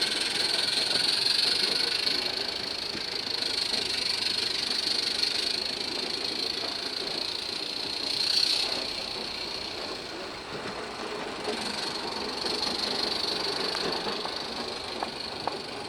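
Small 16mm-scale live-steam garden-railway locomotive running, a steady hiss of steam with a brief swell about eight seconds in and a couple of faint clicks near the end.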